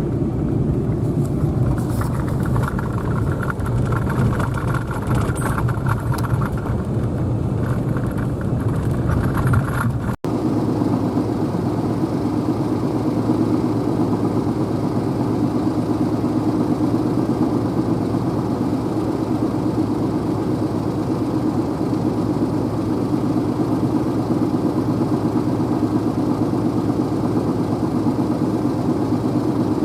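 Vehicle driving along, steady engine and road noise with some light rattling. About ten seconds in the sound cuts off abruptly and switches to a smoother, steadier drone.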